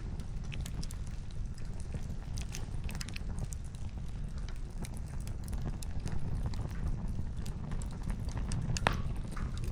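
Wood campfire crackling: scattered sharp pops and snaps from the burning firewood over a steady low rumble.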